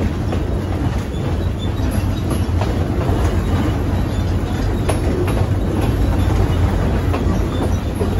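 A train's open-air passenger car rolling along the track: a steady low rumble, with a few faint clicks from the wheels on the rails.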